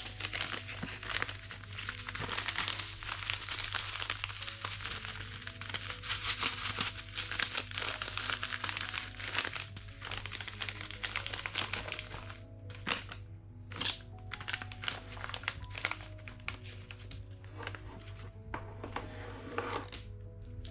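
Packaging crinkling and rustling as it is handled, dense for the first twelve seconds or so, then giving way to scattered clicks and knocks of items being set down, over soft background music.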